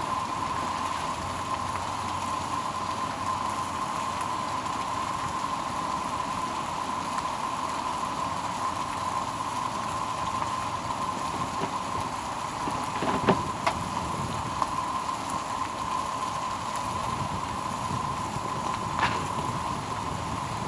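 Hash browns and sausage frying in oil in a pan: a steady sizzle with a thin steady high tone under it. A couple of sharp clicks come about two-thirds of the way in and again near the end.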